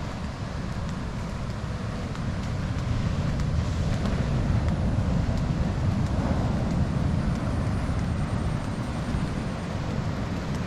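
Wind buffeting the microphone with a low, uneven rumble, over a steady rush of surf that swells a little now and then.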